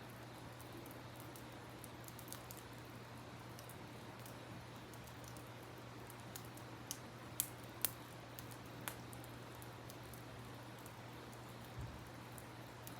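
Campfire crackling, with a handful of sharp pops about halfway through, over a steady rush of river water.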